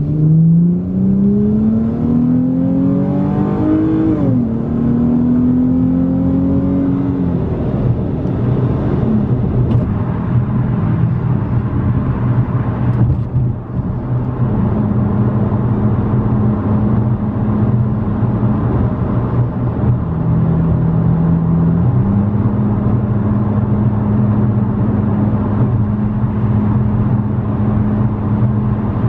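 Dodge Challenger's 3.6-litre Pentastar V6 heard from inside the cabin through an aftermarket exhaust: the engine note rises under acceleration, drops with an upshift about four seconds in, rises again, then settles into a steady cruising hum with small shifts in pitch later on.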